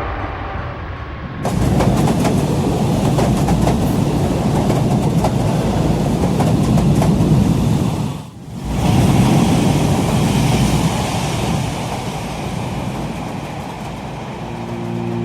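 Loud, steady rumble of a moving vehicle with rapid clattering, broken by a sudden brief drop about eight seconds in.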